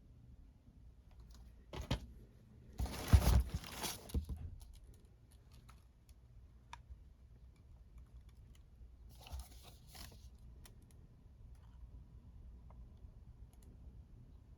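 Handling of packaging and plastic Blu-ray/DVD cases: short rustles and clacks, the loudest cluster about three to four seconds in, a smaller one near ten seconds, with scattered light clicks between.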